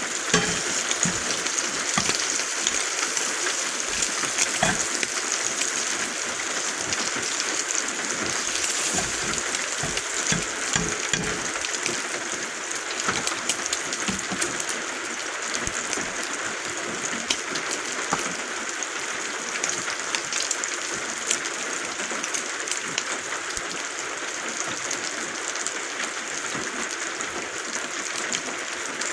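Steady rain drumming on the roof, an even hiss peppered with small drop ticks.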